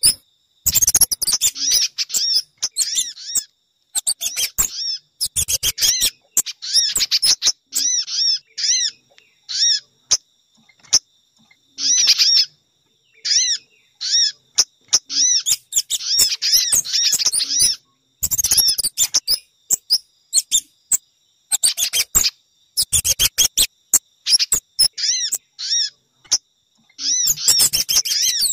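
Lure recording of small songbird calls made to draw in sogon, spiderhunters and kemade: phrases of quick, high chirps and twitters, one to two seconds long, broken by abrupt silent gaps as the edited track repeats.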